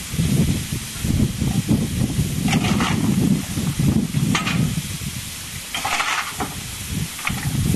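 Steam locomotive, a low uneven rumble with several short bursts of hissing steam.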